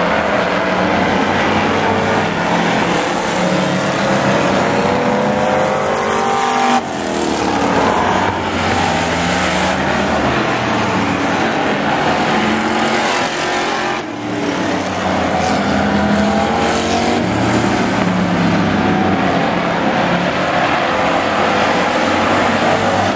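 Engines of several demo pickup trucks racing on an oval track, revving up and down as they run and pass. The sound drops abruptly twice, about seven and fourteen seconds in.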